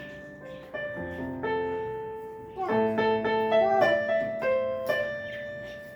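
Keyboard with a piano sound being played by hand: single notes and chords struck at uneven moments and left to ring, with a busier run of notes in the middle.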